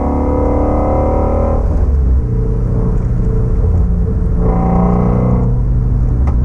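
2016 Shelby GT350's 5.2-litre flat-plane-crank V8 running at steady revs on light throttle, a rich, many-toned exhaust note. The note thins about one and a half seconds in as the throttle is eased, comes back fuller for about a second around five seconds in, then eases again.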